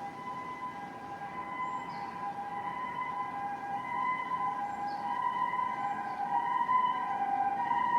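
Distant two-tone emergency vehicle siren, switching back and forth between a higher and a lower steady note, growing louder as it comes closer, over steady wind noise.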